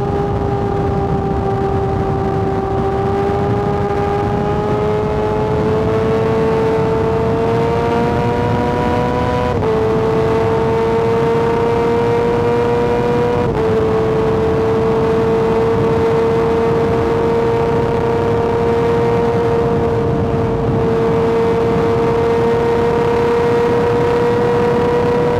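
Kawasaki ZX-6R inline-four engine running hard at high revs, its pitch climbing slowly, with two quick upshifts that briefly drop the pitch, about a third and halfway through, then holding a steady high note. A constant rush of wind and road noise runs underneath.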